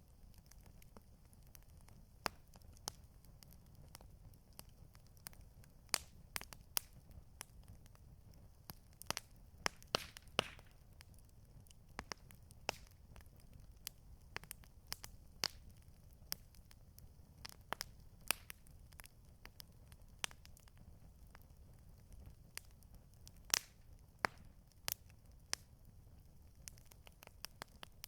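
Campfire crackling: irregular sharp pops and snaps, a few clearly louder than the rest, over a faint low rumble.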